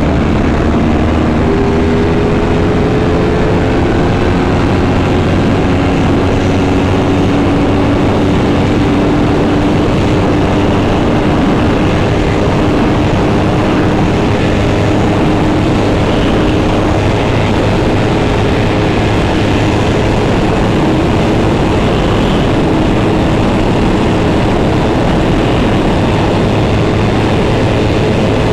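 Motorcycle engine running at a steady cruise while riding, its pitch creeping slowly upward, under heavy wind and road noise.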